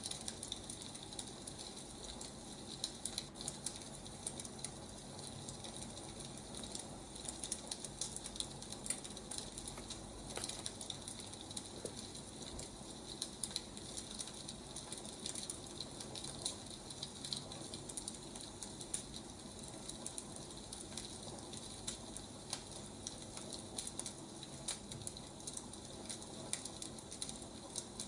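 Wood fire crackling: a steady hiss with many small snaps and pops all through.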